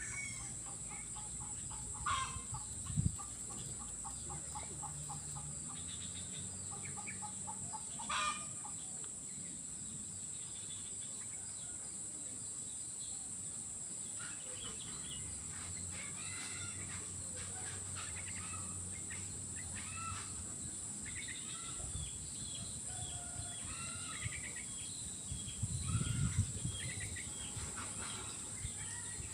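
Outdoor wildlife ambience: a steady high-pitched insect drone under a string of bird calls, including chicken-like clucking, with a run of quick pulsed calls early on and many short chirps in the second half.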